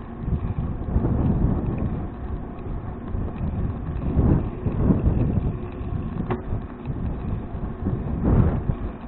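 Wind buffeting an action camera's microphone on a moving bicycle: a gusty low rumble that swells and fades, with a faint click about six seconds in.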